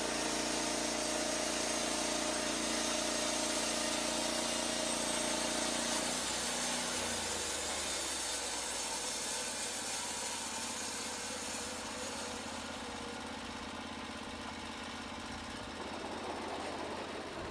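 Portable bandsaw mill's engine running at high throttle with the band blade cutting, then dropping to a lower idle about six to seven seconds in. A high hiss carries on until about twelve seconds in and then fades.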